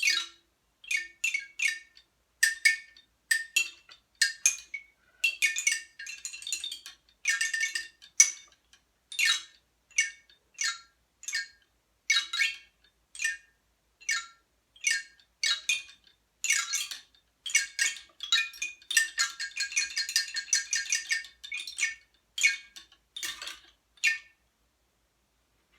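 Tinkling chimes struck in short, irregularly spaced high-pitched notes, with a quick flurry of rapid strikes about three-quarters of the way through.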